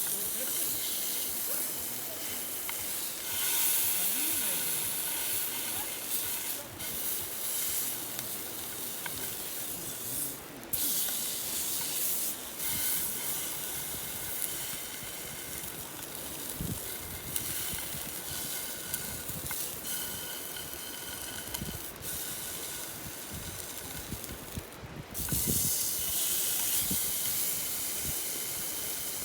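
Steady hiss of steam from a pot simmering on low heat over a campfire, with faint thin whistling tones. The hiss cuts out briefly a few times.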